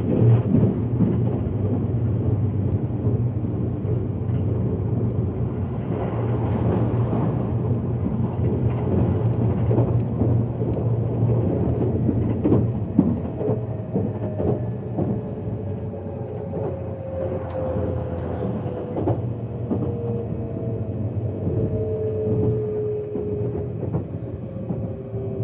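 Inside a JR E657-series limited express train running along the track: a steady low rumble with occasional clacks over the rail joints. From about halfway, a whine from the traction motors falls slowly in pitch as the train brakes for its stop.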